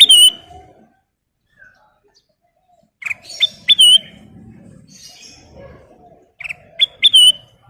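Kutilang emas, a bulbul, singing loud, short, clear whistled phrases, three of them, each a few quick notes with a dip in pitch.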